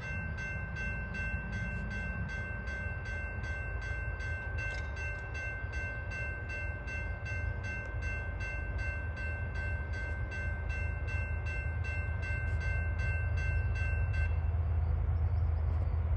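Railroad grade-crossing bell ringing at about three strikes a second, stopping about 14 seconds in, over the low rumble of a CSX autorack freight train that grows louder.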